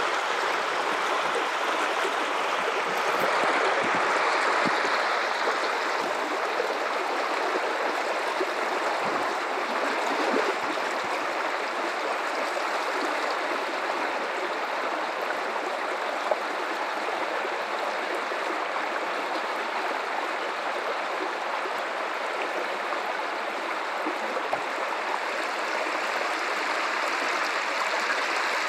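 River water running over rocks in a steady, even rush with light gurgling.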